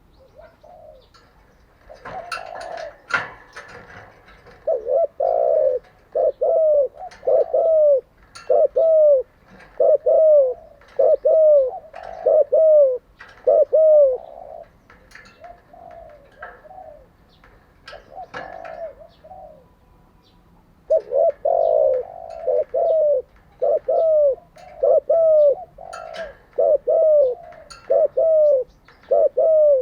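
Spotted doves cooing: runs of short, falling coos, one after another, with a pause of a few seconds in the middle. Higher chirps from small birds come and go beside them.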